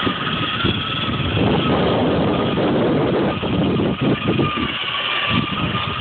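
Child's battery-powered ride-on toy truck driving, its electric motor and gearbox giving a steady whine over the rough rumble of plastic wheels rolling; the sound stops near the end.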